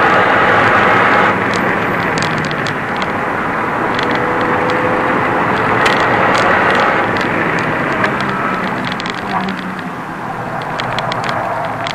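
Renault Mégane RS 250's turbocharged four-cylinder engine heard from inside the cabin at track pace: running hard at high revs, easing off about a second in, then climbing in pitch again around four to six seconds in. Short clicks and rattles are scattered throughout over the road and wind noise.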